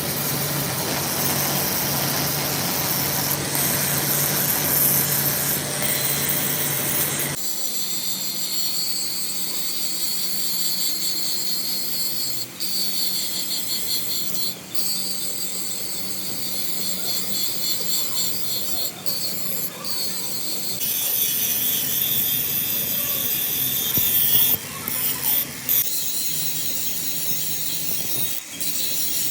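A power tool working metal, a harsh, high-pitched grinding noise that changes abruptly about seven seconds in and drops out briefly several times.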